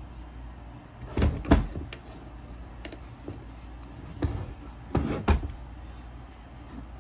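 Two short bursts of knocking and clattering about three seconds apart, as parts and tools of the grinder's gear head are handled and set down during reassembly, over a low steady hum. The grinder's motor is not running.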